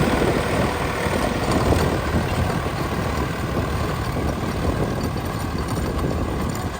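Swaraj 963 tractor's diesel engine running steadily.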